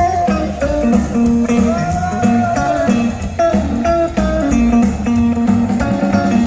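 Band playing blues-style music: electric guitar lines, with a bent note about two seconds in, over a steady bass line and beat.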